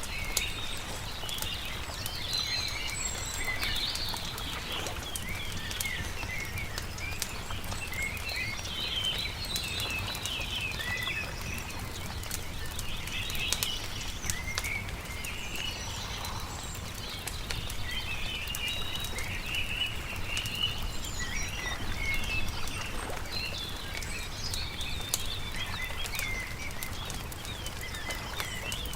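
Songbirds chirping and twittering throughout over the scattered pops and crackles of a wood campfire, with a low steady rumble underneath.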